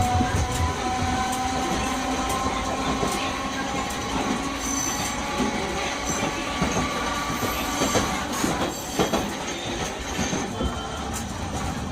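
Nagasaki Electric Tramway 370-series streetcar running, heard from inside the car: a thin whine rises slowly in pitch over the first few seconds and then fades under the steady running noise. Sharp clicks from the wheels passing over rail joints come and go, most of them about eight seconds in.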